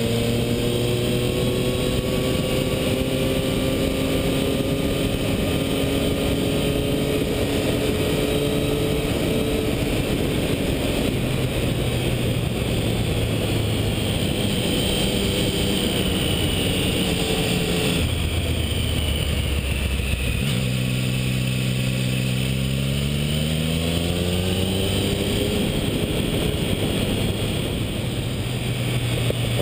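Triumph Tiger 1050's inline-three engine running under way over a steady rush of wind and road noise. Its pitch creeps slowly upward, drops about two-thirds of the way through, then climbs quickly as the bike accelerates.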